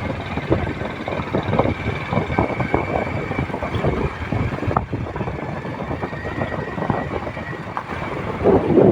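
Riding noise from a motorcycle on the move: an uneven rumble of engine, road and wind buffeting the microphone.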